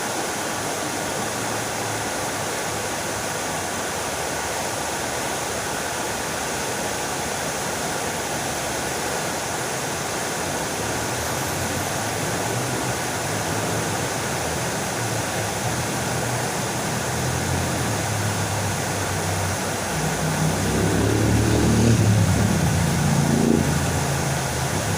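Fountain water splashing steadily. A low, pitched rumble builds through the second half and is loudest a few seconds before the end, then fades.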